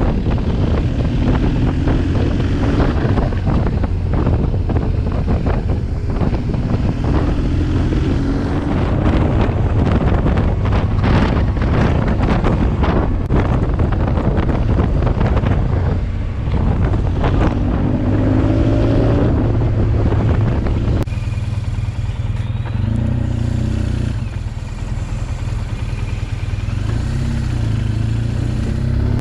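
BMW R1200GS boxer-twin motorcycle engine running on the road, its pitch rising several times as it accelerates, with wind rushing over the microphone.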